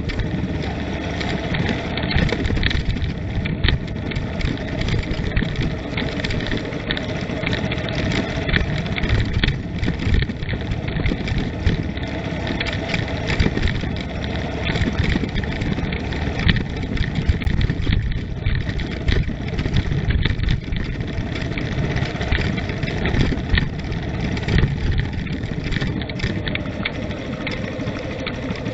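Vehicle driving along a forest road: steady engine and road noise with frequent small knocks and rattles.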